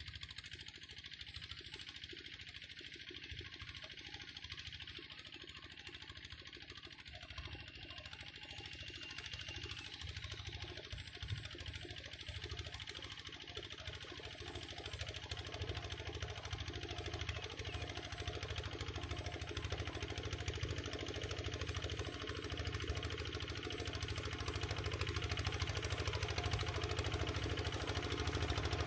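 Single-cylinder diesel engine of a Cambodian two-wheel walking tractor (ko yon) running with a steady knocking beat, growing gradually louder throughout.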